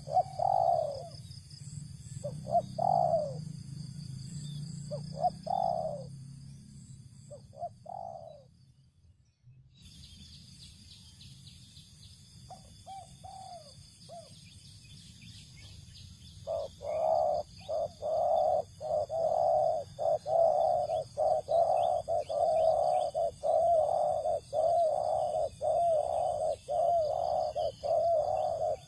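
Spotted doves cooing: separate coo phrases at first, a brief break about a third of the way in, then from a little past halfway a long unbroken run of rapid coos. Thin high chirping of smaller birds or insects runs above.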